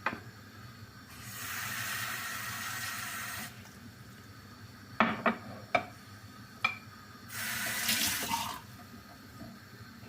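Kitchen tap running for about two seconds, then a handful of sharp knocks and clinks, then the tap running again briefly.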